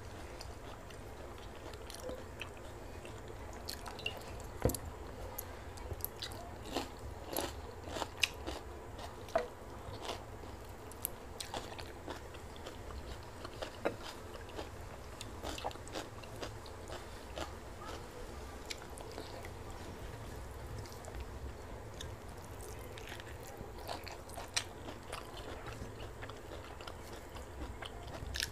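Close-up eating sounds: a person chewing pakhala (fermented water rice) and fried vegetables, with many short wet clicks from the mouth and fingers in the rice bowl, busiest in the first half. A steady low hum sits underneath.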